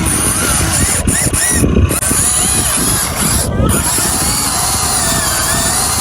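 Gear motors of a Huina RC excavator running, with a dense, steady mechanical rattle.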